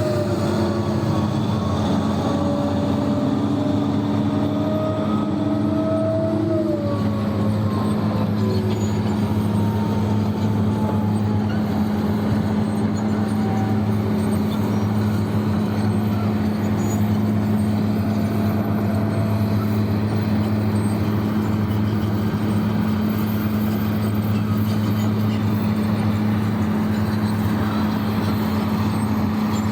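Heavy mining machinery's big diesel engine running steadily with a deep hum, while a whine rises slightly and then falls away and fades in the first several seconds.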